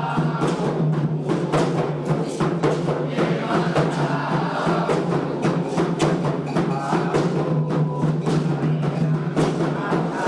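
Candomblé ritual music for a roda de Xangô: drums beating a fast, steady rhythm with voices singing over them.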